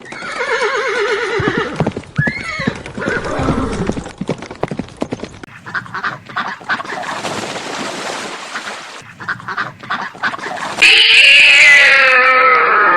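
A sequence of different animal calls, one after another. The last, starting about eleven seconds in, is the loudest: a long call that slowly falls in pitch.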